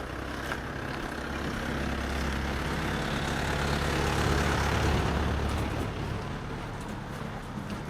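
A motor vehicle drives past on the street, its engine and tyres growing louder to a peak about halfway through and then fading away.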